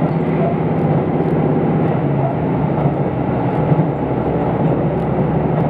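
Steady running noise inside a KiHa 75 diesel railcar at speed: the diesel engine's drone under the rumble of wheels on rail.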